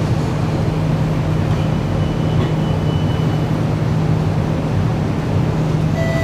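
Singapore MRT train running, heard from inside the carriage: a steady rumble with a constant low hum.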